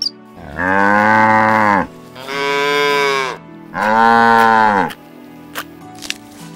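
Cattle mooing: three long calls of about a second each, one after another with short gaps.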